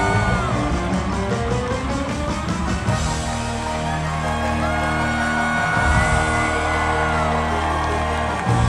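Loud live theatre band music for the curtain-call bows, with heavy sustained bass notes and held melody lines. Audience whoops and cheers sound over it.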